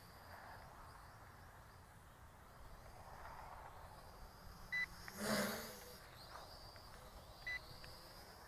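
Two short electronic beeps about three seconds apart from a radio-control transmitter, over a faint steady background hiss. Just after the first beep comes a louder swell of rushing noise lasting about a second.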